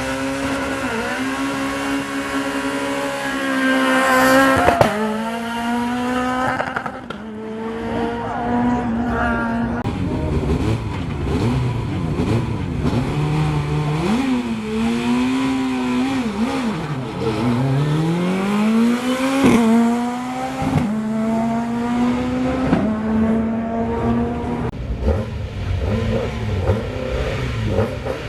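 Rally car engines at a stage start line: an engine held at steady high revs, then a sharp rise in pitch about four seconds in as a car launches and pulls away, followed by another car blipping the throttle and accelerating away with a long rising note later on.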